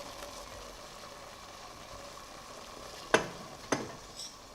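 Chicken stock simmering in a pan on turned-down heat, a faint steady hiss, with two sharp knocks about three seconds in, half a second apart.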